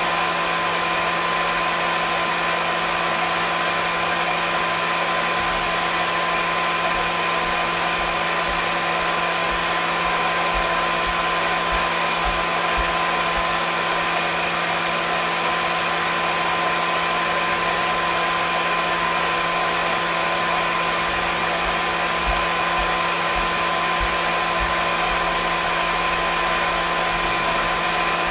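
Hair dryer running steadily: an even rush of blown air with a constant motor hum and whine underneath, unchanging throughout.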